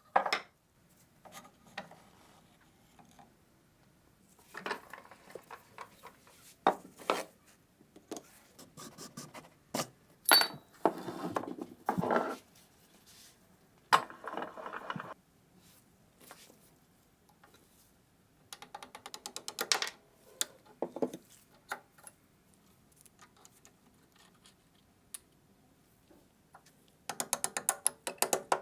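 Hand work on metal machine-gun parts: intermittent clinks, scrapes and short rattles with quiet gaps between them, and a run of rapid, ratchet-like clicking near the end.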